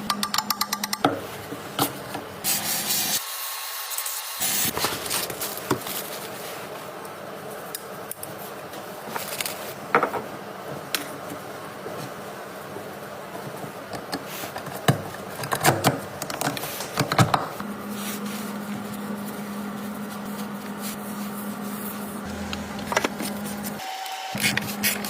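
Hand-tool work on a car: scattered clicks and knocks over rubbing and scraping, with a steady low hum underneath and a few abrupt cuts.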